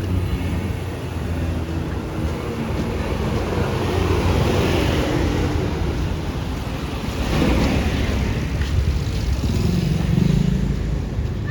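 Street traffic: steady noise of motor vehicles, with engines swelling as several pass by one after another.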